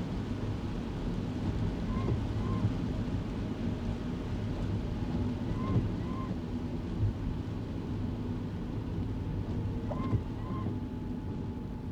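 Steady road and engine noise inside a kei car's cabin in the rain. A pair of short squeaks recurs about every four seconds, the windscreen wipers sweeping across the wet glass on an intermittent setting.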